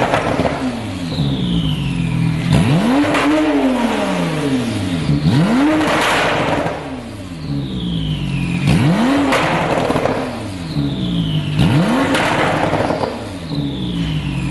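Porsche 911 (991) Turbo S twin-turbo 3.8-litre flat-six with a QuickSilver sport exhaust, idling and blipped four times; each rev rises quickly and then falls back to idle.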